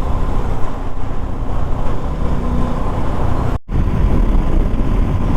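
Riding noise from a moving motorcycle: wind buffeting the camera's microphone over the engine and tyre rumble. It drops out to silence for an instant about three and a half seconds in.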